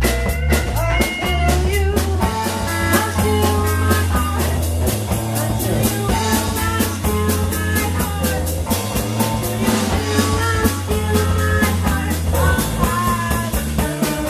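Live blues-rock band playing: electric guitar lines over a bass line and drum kit keeping a steady beat.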